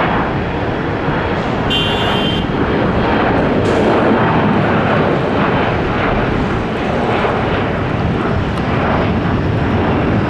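Jet airliner's engines close by, a loud, steady rumble and hiss.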